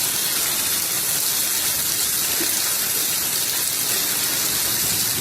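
A steady, even rush of water, unbroken throughout.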